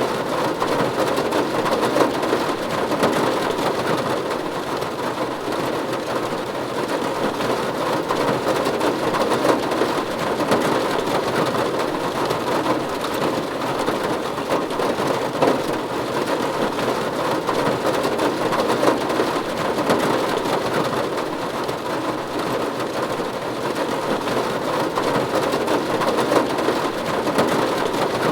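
Steady rain falling on a roof: a dense, even patter of drops that never lets up.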